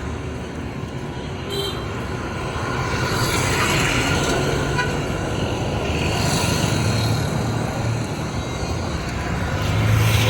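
Street traffic: motor vehicles passing one after another, their engine hum and tyre noise swelling and fading several times, loudest near the end.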